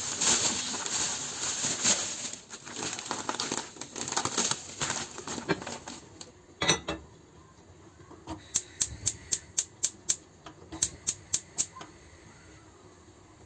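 Packaging crinkling for the first few seconds, then a single sharp knock about two-thirds of the way in, followed by a quick run of about a dozen sharp clicks or taps.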